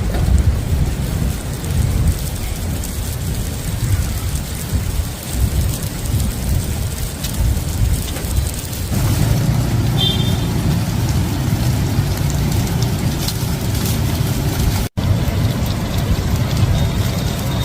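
Strong wind buffeting the microphone: a loud, uneven rushing with heavy low rumble. It cuts out for an instant near the end.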